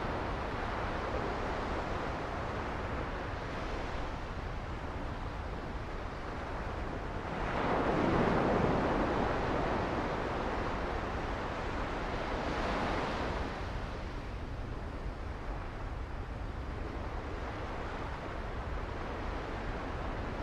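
Sea waves washing onto the beach, a larger wave breaking about eight seconds in and a smaller one a few seconds later, with a steady low rumble of wind on the microphone.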